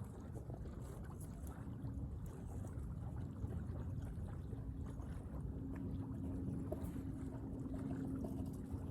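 Low rumbling outdoor noise with a faint steady hum that grows stronger about halfway through.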